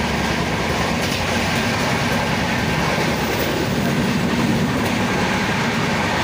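Gorakhpur Intercity express train running at speed, heard from inside a passenger coach: a steady, loud rush and rumble of the wheels on the rails.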